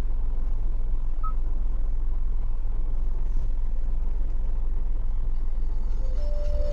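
Steady low hum inside the cabin of the Hyundai Venue N-Line, its 1.0-litre three-cylinder turbo petrol engine idling, with a short electronic beep about a second in. Music from the car's own speakers starts near the end.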